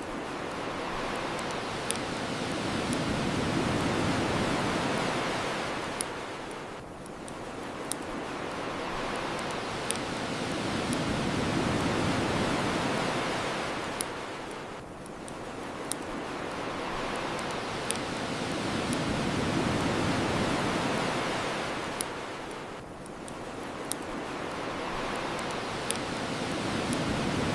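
Ocean surf washing ashore, swelling and falling back about every eight seconds, with the sharp pops of a crackling bonfire every couple of seconds.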